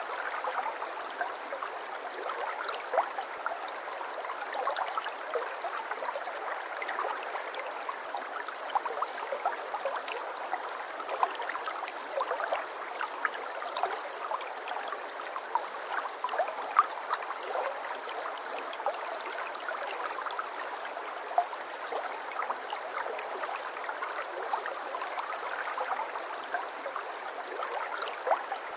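Shallow brook babbling steadily, with many small splashes and gurgles over the running water.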